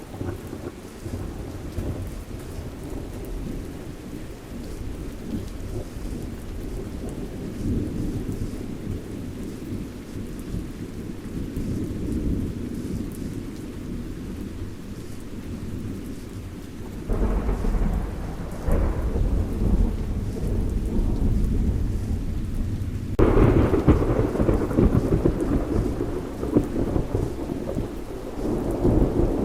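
Thunderstorm: rain falling steadily under rolling thunder. The rumble swells about halfway through and again louder about two-thirds of the way through.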